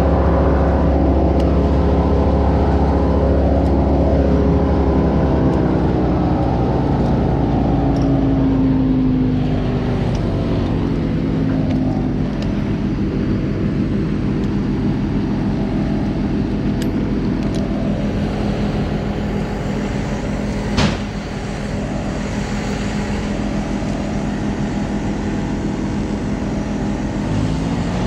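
An engine running steadily, its speed dropping off between about four and ten seconds in and picking up again near the end, with one sharp knock about two-thirds of the way through.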